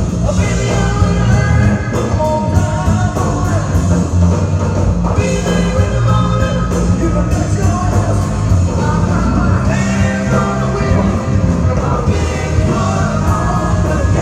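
Rock band playing loud and without a break, with a singer's voice over electric guitar, bass and drums.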